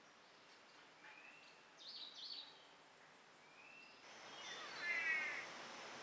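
Birds calling in the forest: a few short rising whistles, a quick burst of high chirps about two seconds in, and a louder harsh call with several stacked tones near five seconds. Background hiss swells from about four seconds in.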